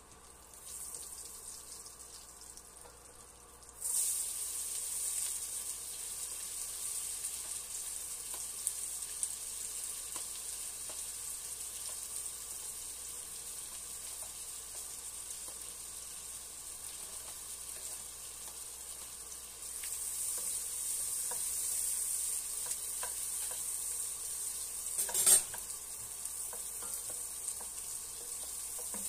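Butter and chopped onion sizzling in a hot enamelled pan while a wooden spoon stirs. The sizzle starts suddenly about four seconds in and grows louder again later on. Near the end there is one sharp knock.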